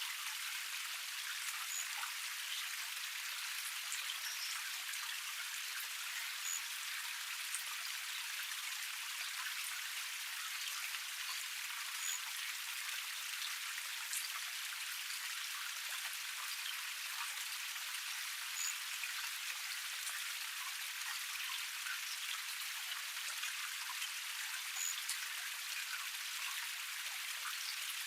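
Small waterfall cascade: water splashing and trickling over rocks in a steady, bright hiss with constant small drips. A short, faint, high chirp recurs about every five or six seconds.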